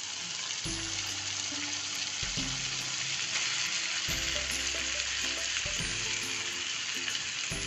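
Steady frying hiss from a kadhai as washed poha (flattened rice) is tipped in over onions and peanuts frying in oil.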